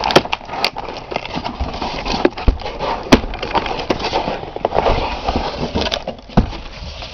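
Packaging rustling and crackling while an exhaust kit is unpacked by hand, with several sharp knocks among it.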